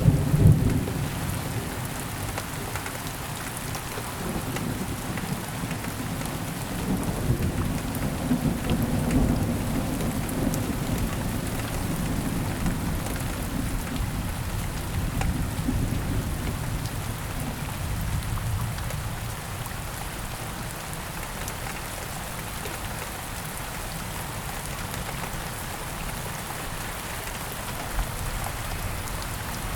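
Steady rain falling, with thunder rumbling low at the start and rolling again through the first half, dying away about two-thirds of the way in.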